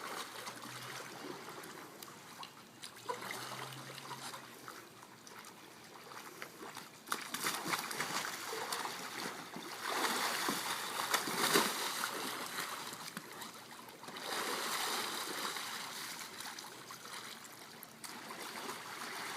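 Water splashing and trickling around a kayak during roll practice. There are louder bouts of splashing from about seven to twelve seconds in and again around fifteen seconds.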